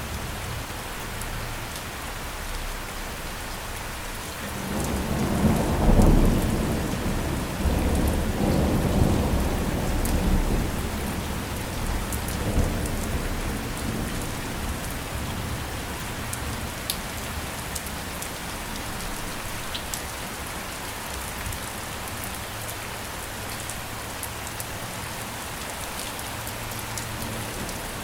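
Steady heavy rain falling on a surface, with scattered drip ticks. About five seconds in, a deep roll of thunder swells up, rumbles on for several seconds and fades away.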